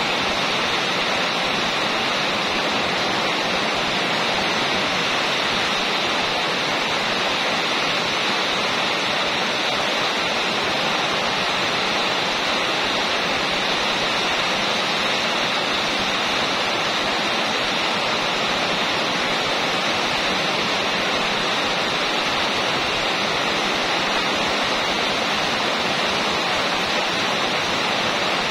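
Steady rain falling on a corrugated metal roof, an even, unbroken patter with no thunder.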